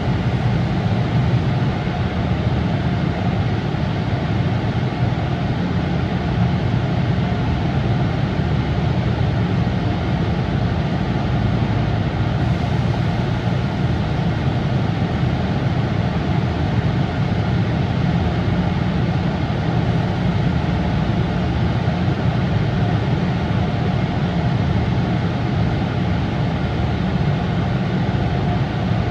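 AVW tunnel car wash machinery running, a loud, steady rushing noise with a low hum underneath and no breaks.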